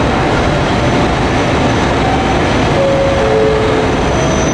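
JR Kyushu 783 series electric train moving slowly along a station platform, a steady, loud running noise, with a couple of short squeals about three seconds in.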